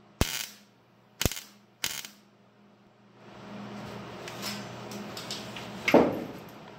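Three short, sharp crackling bursts of a MIG welder laying tack welds on thin sheet metal, in the first two seconds. A steady low hum follows, with one loud knock near the end.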